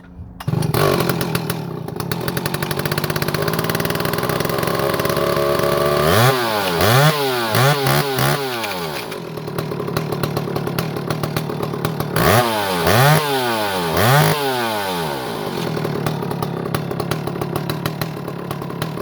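Stihl two-stroke chainsaw cold-starting: it fires about half a second in and runs at a steady fast idle. From about six seconds in it is revved up and down several times in two bursts, then settles back to a steady idle.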